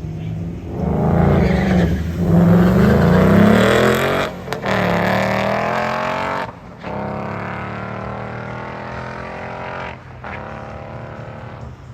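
Drag race launch: car engines revving hard as they accelerate down the strip. The pitch climbs and then drops sharply at gear shifts about four, six and a half and ten seconds in, and the sound fades as the cars pull away.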